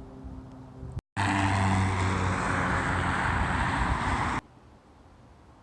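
Road traffic noise from a motor vehicle: a loud, steady rush with a low hum. It starts abruptly about a second in and cuts off suddenly at about four and a half seconds.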